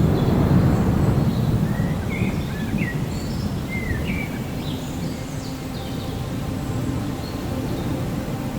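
Rolling thunder rumbling over steady rain, loudest in the first second or two and then slowly dying away. A few short high chirps come through a couple of seconds in.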